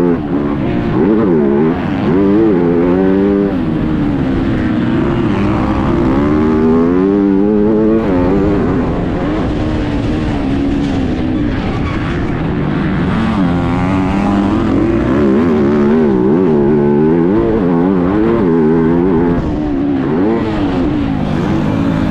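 MX2 motocross bike engine heard onboard through an action camera, its revs rising and falling over and over with the throttle and gear changes, over a constant rush of noise.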